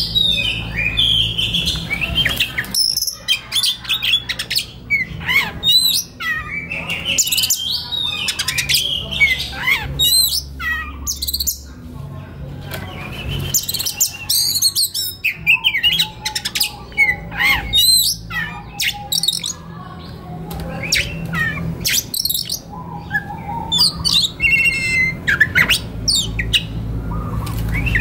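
Oriental magpie-robin (kacer) singing a fast, varied song of whistled notes, slurred glides and sharp clicks, with hardly a pause, over a low steady hum.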